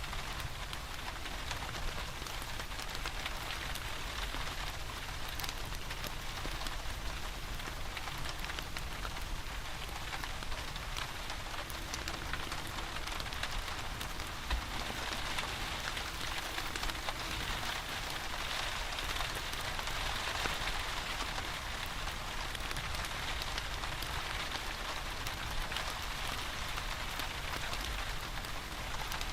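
Steady rain falling, an even hiss with scattered faint ticks and crackles that fit a wood fire burning in a fireplace, over a low rumble.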